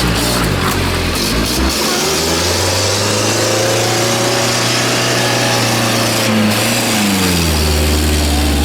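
Tractor engine running loud under load, its revs climbing about two seconds in and dropping back near the end.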